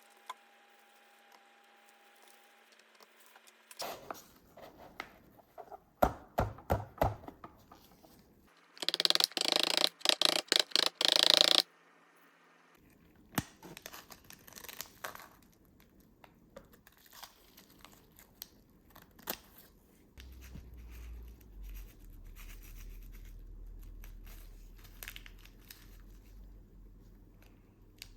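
Packaging being handled and torn open, with a loud, choppy tearing burst lasting about two and a half seconds, about nine seconds in, among scattered small clicks and rustles. A low hum comes in about twenty seconds in.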